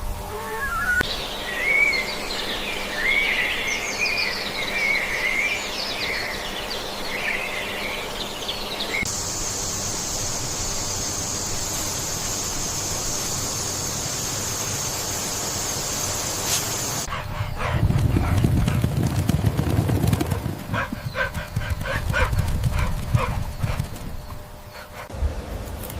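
A run of animal sounds in three abruptly cut segments: quick wavering high chirps for the first several seconds, then a steady high-pitched drone, then low rough rumbling with scattered clicks.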